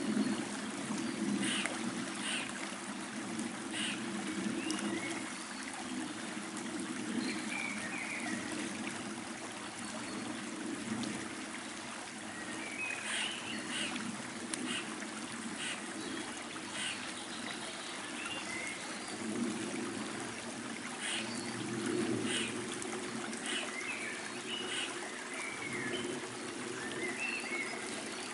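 Small stream trickling steadily, with birds chirping and singing in short phrases now and then over the water.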